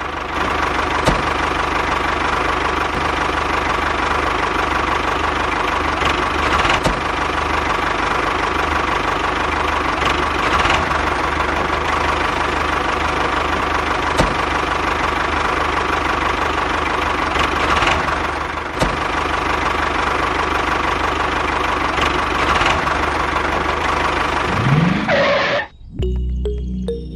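A mini tractor running steadily under load, with a few sharp clicks; its pitch rises briefly just before it cuts off near the end.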